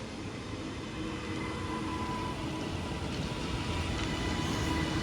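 Class 397 electric multiple unit running through the station, its rumble growing gradually louder with steady whining tones from its electric drive.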